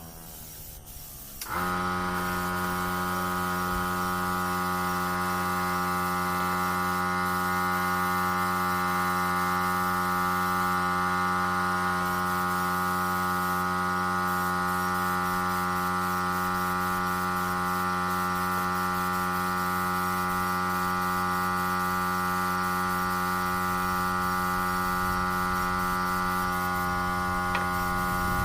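A steady electric hum made of several even tones, starting abruptly about a second and a half in and holding unchanged, like a running electric motor.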